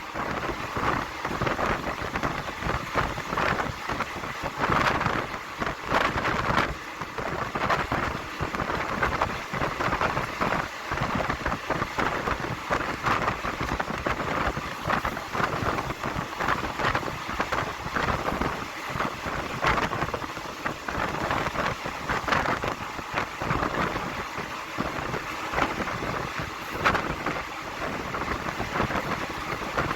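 Passenger train running along the line, heard from on board: a steady rush of wind and wheel-on-rail noise with frequent short, irregular knocks.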